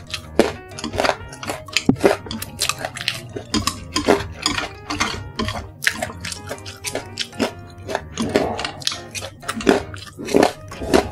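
Close-up crunching and chewing of crispy basreng (fried fish-ball slices), with chopsticks clicking against a plate, in a fast run of sharp crackles. Background music plays steadily underneath.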